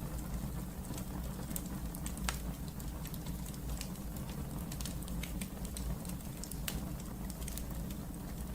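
Wood fire burning in a fireplace: a steady low rumble of the flames with scattered sharp crackles and pops, two of them standing out at about two and six seconds in.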